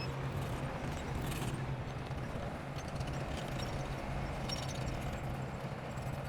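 Bulldozer working: a steady low engine drone with clusters of clanking and clicking, heaviest about a second in and again around three and four and a half seconds in.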